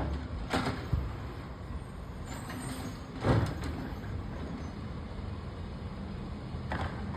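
Garbage truck engine running steadily, with three short hisses of air from its air brakes, the loudest near the middle.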